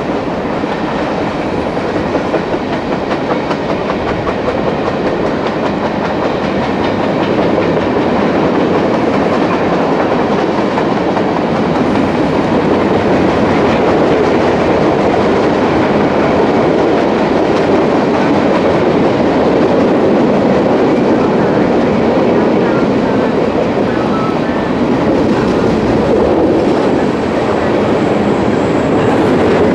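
A trash train's freight cars rolling past, a steady, loud wheel-on-rail noise that grows a little louder after the first several seconds.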